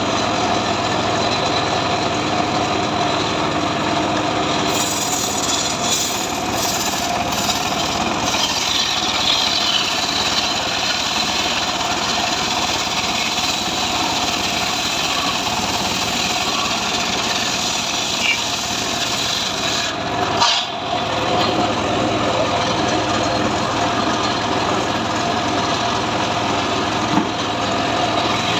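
Engine of a homemade portable sawmill running steadily while sawing sengon wood, with a brief break about two-thirds of the way through.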